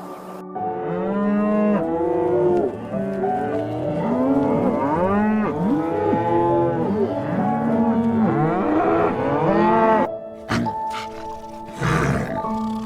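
Several cattle mooing together, their overlapping calls rising and falling in pitch. The calls cut off suddenly about ten seconds in, and a different sound with steady tones takes over.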